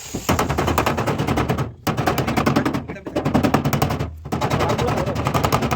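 Power tool working on car body metal with a fast, even rattle of sharp clicks over a low hum, stopping briefly three times.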